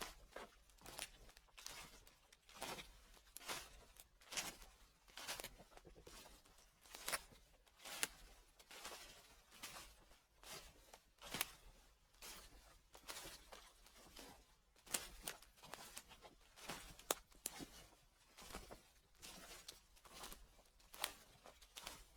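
Footsteps crunching through dry fallen leaves at a slow, steady walking pace, about one crackling step a second.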